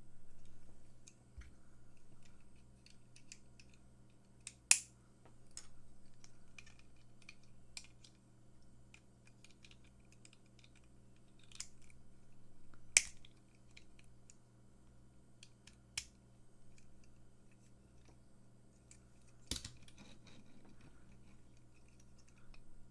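Scattered small clicks and taps of plastic toy parts being handled and fitted, with a few sharper clicks, over a steady low hum.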